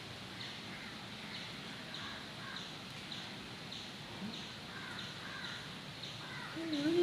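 Faint birds calling in the background: a short high chirp repeated about twice a second, with a couple of lower warbling calls.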